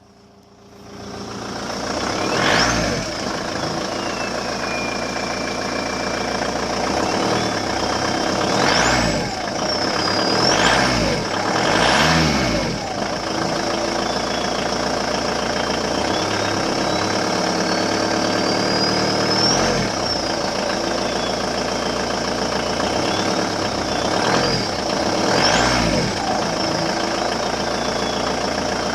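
Volkswagen Passat B5's stock 110 hp 1.9 TDI four-cylinder turbodiesel, revved about six times from idle, one of them a slow climb. The turbocharger whistles with a high whine that rises and falls in pitch with each rev.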